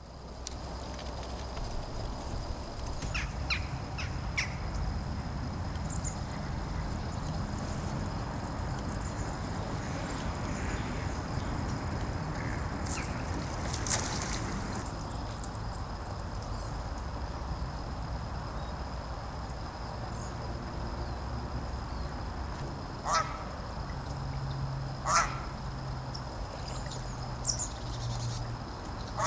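Ducks quacking, with two loud calls near the end, among short high-pitched calls of small birds over a steady low background rumble.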